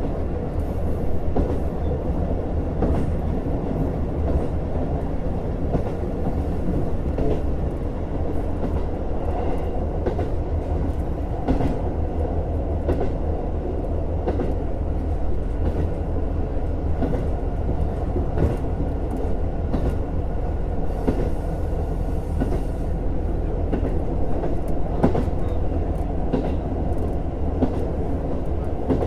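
JR Hokkaido KiHa 150 series diesel railcar running along the line, a steady engine and running drone with scattered sharp clicks from the wheels on the track.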